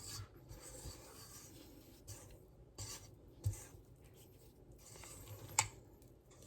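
Spatula scraping and folding thick brownie batter in a mixing bowl: soft rubbing scrapes, with a dull knock about halfway through and a sharper click against the bowl near the end.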